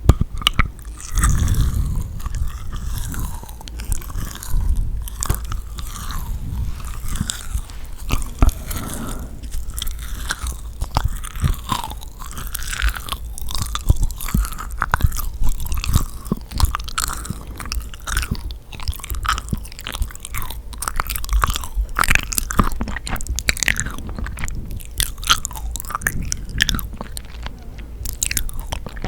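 Close-miked eating sounds of yakgwa, Korean honey-soaked fried cookies: bites followed by continuous sticky, wet chewing, full of small clicks and crackles.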